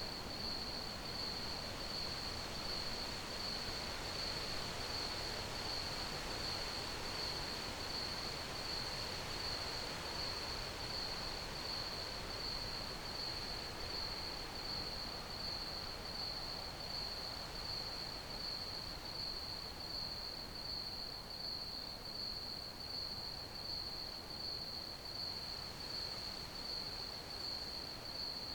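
Crickets chirping in a steady, unbroken chorus at one high pitch, with fast, even pulses, over a soft background hiss.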